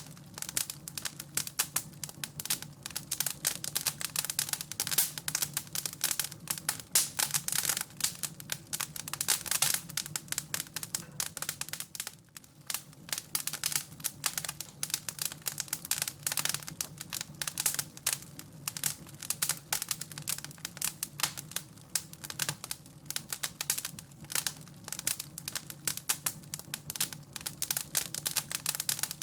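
Wood fire crackling and popping in a fireplace: a dense, irregular stream of sharp little snaps, with no pause.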